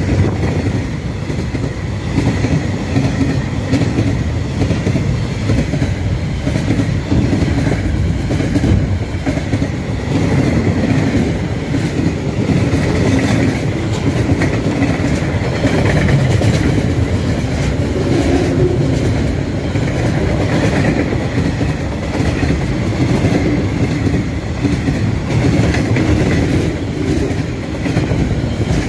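A long freight train of container wagons rolling steadily past close by, its wheels clattering over the rail joints.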